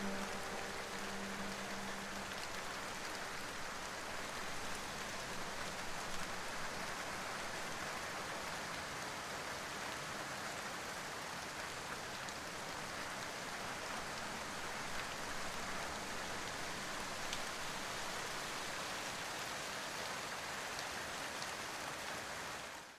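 Steady rain falling on a surface, an even hiss with scattered drop ticks; a soft music tone fades out in the first couple of seconds and the rain cuts off abruptly at the end.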